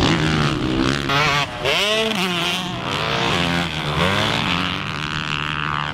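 A 450 four-stroke motocross bike engine revving up and down as it is ridden, its pitch climbing and dropping several times with throttle and gear changes.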